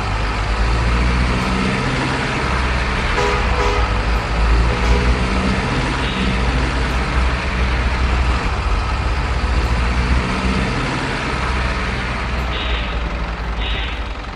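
Diesel truck engine sound running with a steady low rumble, with two short hisses near the end.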